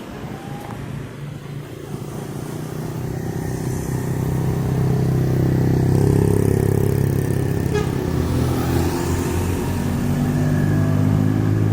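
Heavy trucks or buses passing close by in traffic, their low engine note growing louder from about four seconds in, with another heavy engine building near the end.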